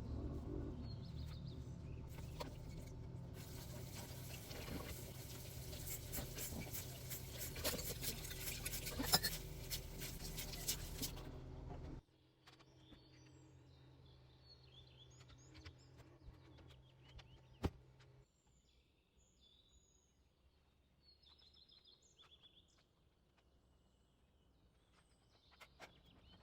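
Dense crackling hiss full of sharp clicks, which cuts off abruptly about twelve seconds in. After it, faint high bird chirps over quiet background, with one sharp click partway through.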